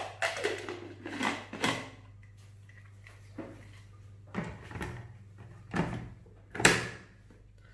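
Kitchen handling sounds: about eight short knocks, clatters and rustles at irregular intervals as whole spices are tipped into a container and the container is handled, with a low steady hum underneath. The loudest knock comes near the end.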